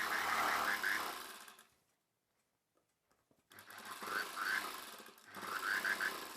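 Sewing machine stitching a seam through fabric in short runs, a fast even ticking of the needle. It runs for about a second and a half, stops dead for about two seconds, then starts again in two more runs.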